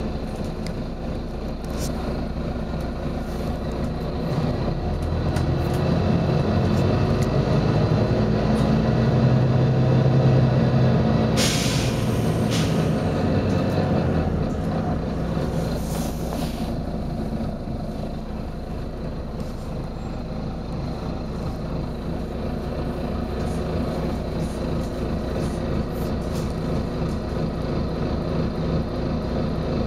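Volvo B9TL double-decker bus's six-cylinder diesel engine running and pulling, its pitch rising to a peak about ten seconds in and then falling back to a steady run. Two short, sharp hisses of compressed air from the bus's air system come about eleven and sixteen seconds in.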